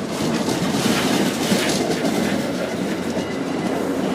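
MBTA commuter rail train rolling past, its wheels clattering over the rail joints in a steady run.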